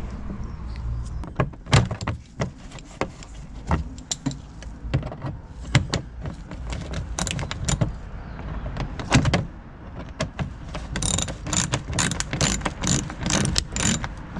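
Refitting a car's plastic engine undertray from beneath: scattered clicks and knocks of plastic panel, fasteners and hand tools, then a quick run of rapid clicking near the end.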